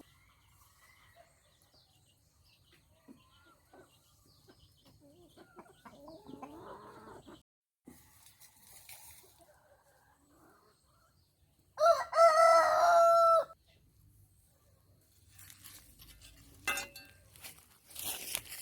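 A rooster crows once, loud, about twelve seconds in, after some faint scattered clucking. Near the end there are a few light knocks and clicks.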